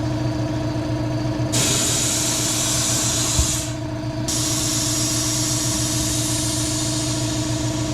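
Compressed air hissing from a Coats RC10A pneumatic tire machine, starting about a second and a half in, stopping briefly with a knock, then hissing again, over a steady machine hum.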